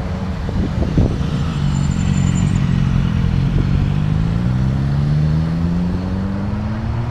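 Car engine accelerating, its pitch rising steadily through the second half, with a few sharp cracks in the first second or so.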